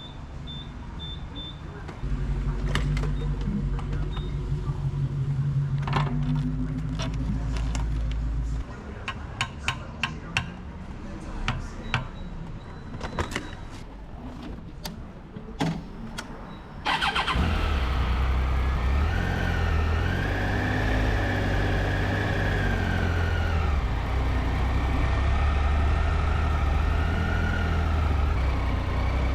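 A gas pump hums steadily for several seconds while fuel is dispensed, then stops, followed by a run of sharp clicks and knocks. About seventeen seconds in, a Triumph Tiger 800's three-cylinder engine starts and keeps running, its pitch rising and falling.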